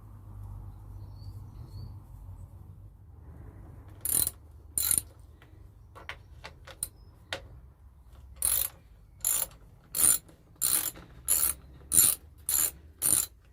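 A ratchet wrench being worked in short strokes: a brief rasp of clicks with each stroke, a couple of strokes about four seconds in, then a steady run of strokes about every two-thirds of a second.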